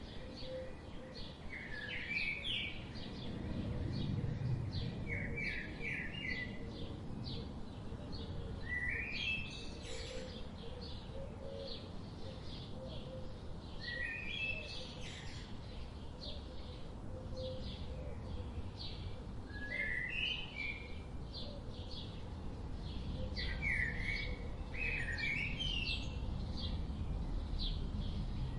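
Forest songbirds singing: one bird repeats a short rising phrase every few seconds while others keep up quick high chirps, over a steady low rushing background.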